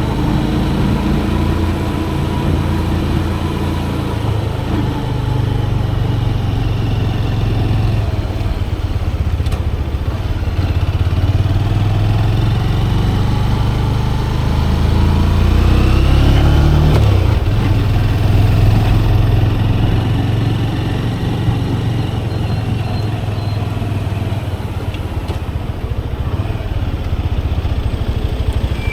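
Manual motorcycle engine running while riding, its pitch rising and falling as the throttle opens and closes, with a climb and drop around halfway through.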